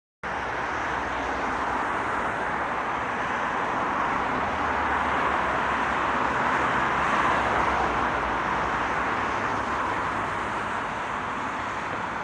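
A train rolling past: a steady rolling rumble that starts abruptly, swells slightly around the middle and eases off toward the end.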